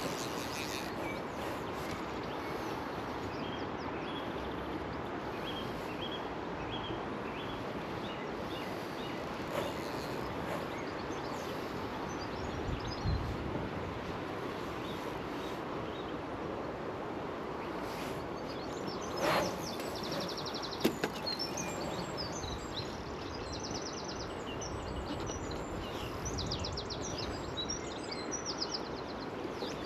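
Steady outdoor background noise with small birds chirping in short repeated calls, busier and higher-pitched near the end; a couple of brief knocks about two-thirds of the way through.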